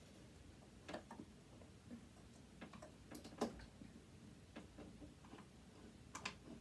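Faint, irregular clicks and taps of a screwdriver and small parts being handled while a device is taken apart, about ten in all, against a quiet room.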